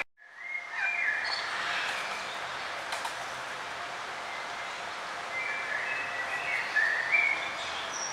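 Songbirds chirping and trilling in short repeated calls over a steady background hiss. The sound drops out for an instant at the start and fades back in, and the loudest calls come near the end.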